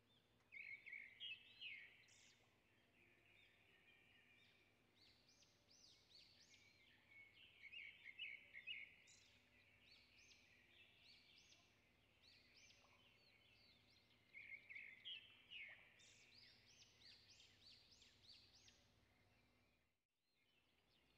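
Near silence with faint bird chirping in the background, coming in a few short bouts of quick, high chirps.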